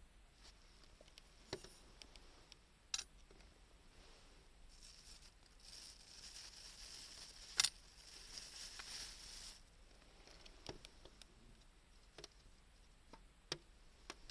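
Small wood fire in a homemade secondary-combustion can stove crackling, with scattered sharp pops and a few seconds of hiss in the middle.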